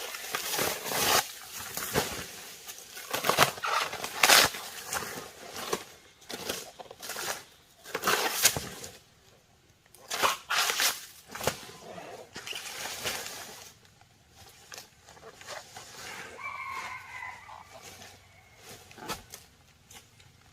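Irregular knocks and clatters, at times several a second, for most of the first fourteen seconds. About sixteen seconds in, a short pitched call.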